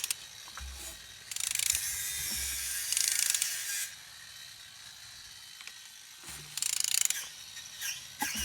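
A ratchet wrench clicks as an engine's crankshaft is turned over by hand, in three bursts of rapid clicking. The crank turns, showing the engine is free and not seized.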